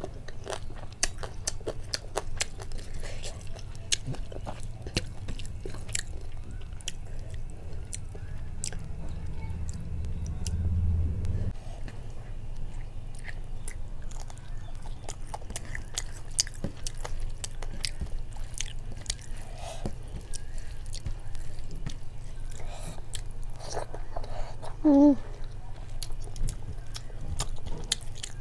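Close-up chewing of a person eating rice and curry by hand, with many small mouth clicks throughout. One short hummed vocal sound about 25 seconds in. A low steady hum underneath swells and then drops away about 12 seconds in.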